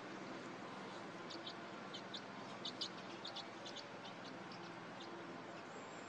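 A bird calling in a run of short, high chirps, from about a second in to about four seconds in, over a faint steady background hiss.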